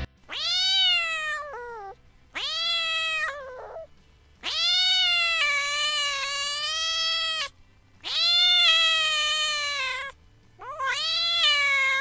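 Domestic cat meowing five times in a row, each call drawn out with a rise at the start and a fall at the end; the third meow, in the middle, is the longest.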